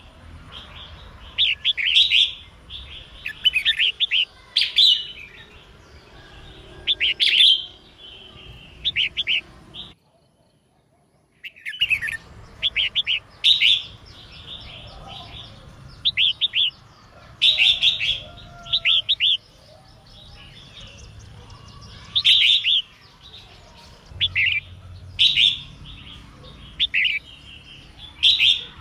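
Female red-whiskered bulbul singing: short, bright, warbled phrases repeated every second or two. The sound breaks off into silence for about two seconds partway through.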